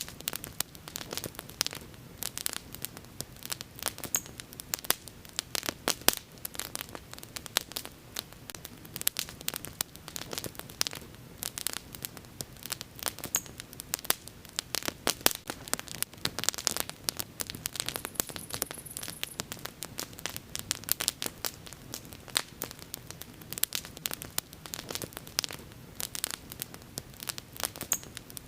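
Wood bonfire burning with dense, irregular crackling and sharp pops over a soft steady hiss.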